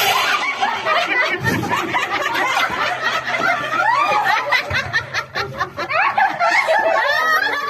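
A group of women breaking into laughter, several voices at once, with snickers and chuckles overlapping, starting suddenly and going on loudly throughout.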